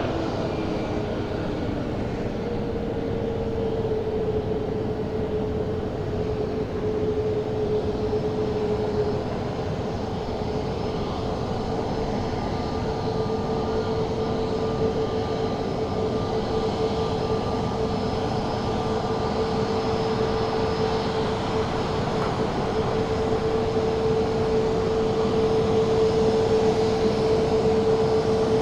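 Jet airliner engines running: a steady rush with a held whining tone, growing slightly louder near the end.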